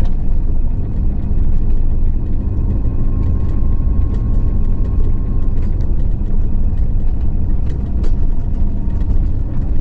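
Steady low rumble of a car's engine and tyres heard from inside the cabin while driving at an even speed.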